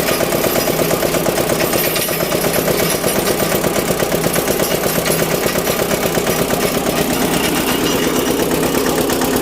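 22 HP Eicher diesel engine running steadily with a rapid, even firing beat; its pitch rises slightly near the end.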